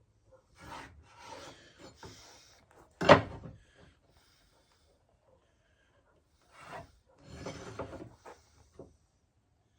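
Wooden boards being handled, scraping and rubbing against each other and the bench in two stretches, with one sharp wooden knock about three seconds in.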